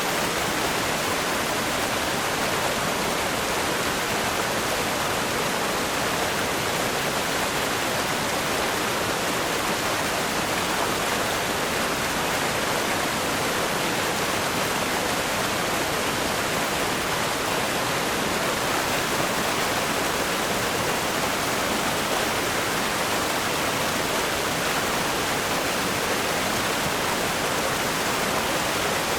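River rapids rushing over rocks: a steady, unbroken wash of water noise.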